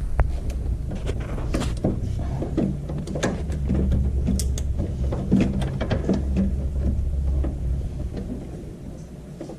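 Scattered clicks, clanks and knocks of metal parts and tools being handled, over a low rumble that fades near the end.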